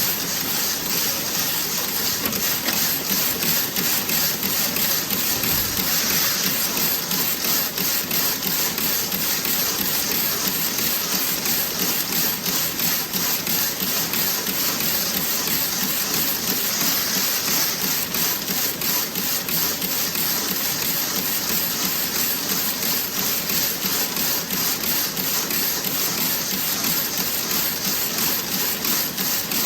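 Toe-sock knitting machine running: a steady, fast mechanical clatter of rapid even ticks over a constant hiss.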